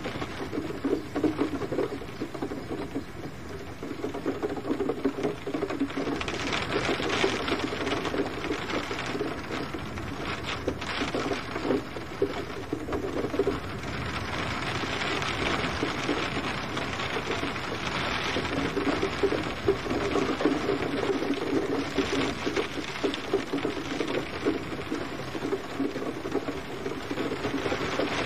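Gentle rain falling steadily, a dense patter of drops that swells and eases by turns.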